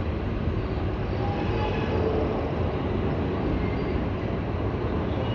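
Long freight train's cars rolling past at a steady pace: a continuous rumble of wheels on rail, with faint brief high squeals now and then.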